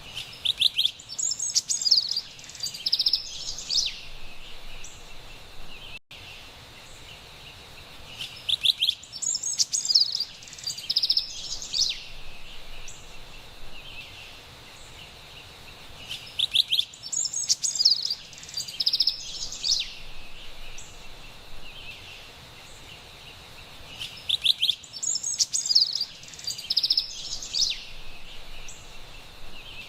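Carolina wren singing: four near-identical bursts of bright, high chirping phrases about eight seconds apart, each lasting about three seconds, over a faint steady high hiss.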